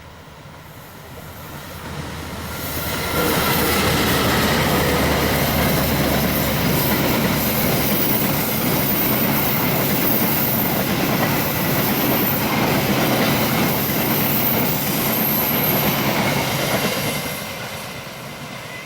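A diesel-hauled train passing close by: the locomotive's engine hum rises as it approaches, then the steady rush of wheels on rails holds for about fourteen seconds with a thin high wheel squeal in the middle, and fades as the train draws away.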